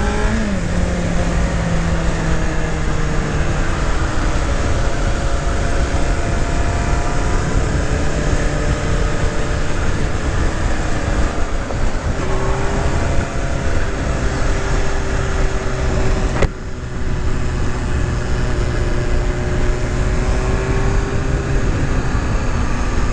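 Motorcycle engine running at a steady riding speed under heavy wind noise. Its pitch holds mostly level with a few small shifts, and there is a brief drop in level about sixteen seconds in.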